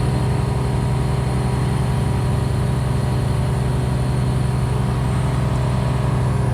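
A large engine running steadily at a constant speed, a low, even hum with a fast pulsing rhythm and no change in pitch.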